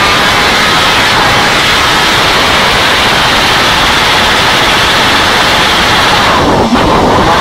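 Motorcycle engine running loud and steady on a dynamometer, briefly dropping away about six and a half seconds in before picking straight back up.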